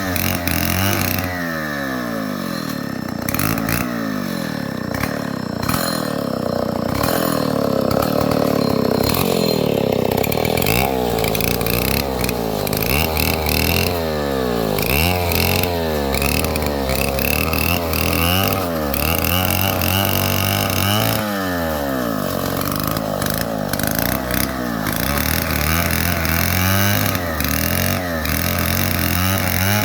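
Stihl 070 two-stroke chainsaw running, its engine pitch repeatedly rising and falling as the throttle is worked through the cut.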